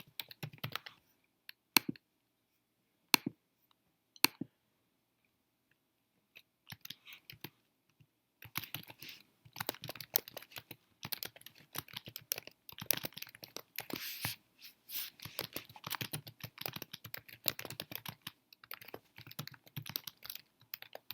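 Typing on a computer keyboard: a few separate key clicks, a pause, then fast, irregular typing from about eight seconds in.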